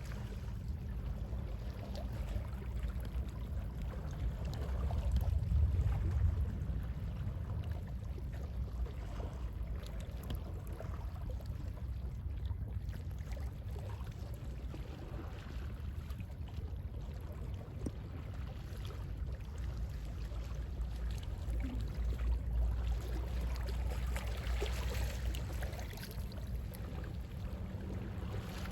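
Calm sea waves washing in steadily over a low rumble of sea wind, swelling louder twice as bigger waves come in, once about five seconds in and again near the end.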